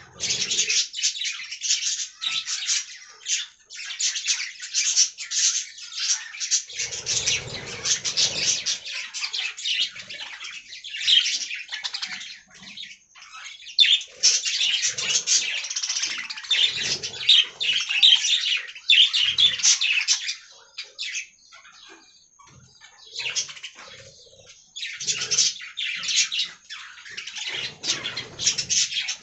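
Budgerigars chirping and warbling in a dense, rapid chatter, easing off for a few seconds about two-thirds of the way through before picking up again.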